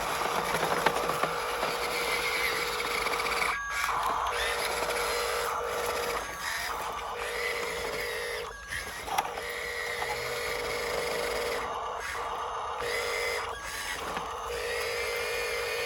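Small electric motor and gearbox of a radio-controlled dump truck running with a steady whine, cutting out briefly several times.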